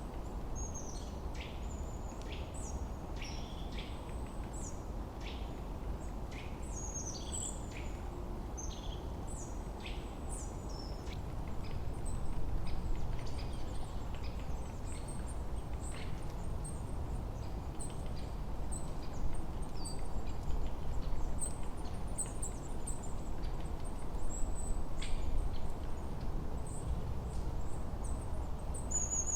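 Forest ambience: several small songbirds chirping with quick, high, falling notes, dense in the first half and thinning to higher twitters later, over a steady low rush of wind that grows louder about halfway through.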